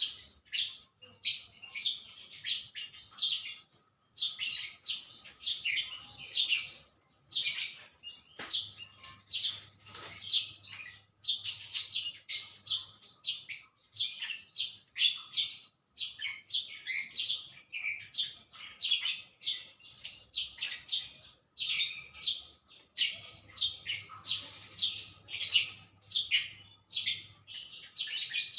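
A bird chirping close by in quick, repeated short calls, several a second, with brief pauses every few seconds.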